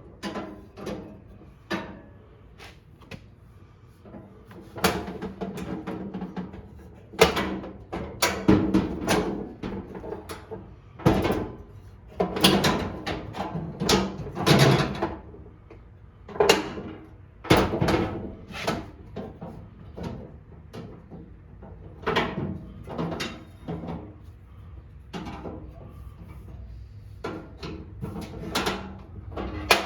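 Irregular clicking, knocking and clattering of parts being handled and fitted during a hands-on repair, heaviest in the middle stretch.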